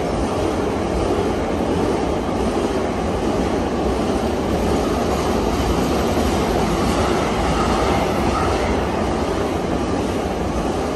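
Container wagons of a freight train rolling through the station without stopping: a steady rumble of steel wheels on the rails.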